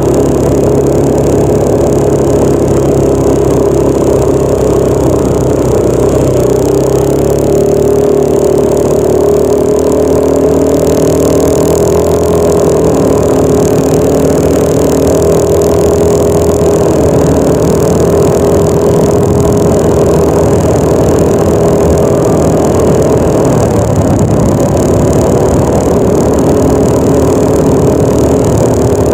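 Yamaha NMAX 155 scooter's single-cylinder four-stroke engine running steadily while riding, its engine speed shifting up and down a few times.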